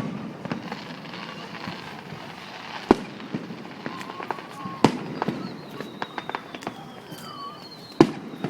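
Aerial fireworks shells bursting over water: three loud booms about two to three seconds apart, with smaller pops and crackles between them.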